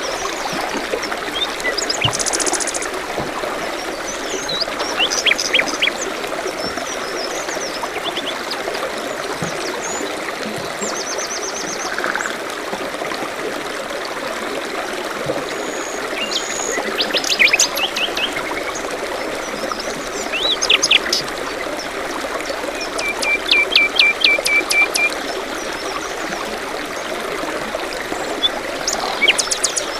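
A steady trickling stream with several small birds calling and singing over it: short chirps, quick trills and a rapid run of repeated notes about two-thirds of the way in.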